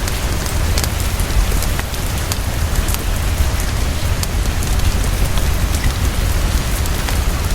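Heavy, fast, steady rainfall: a dense hiss over a deep, steady low rumble, with scattered sharp little clicks and crackles throughout.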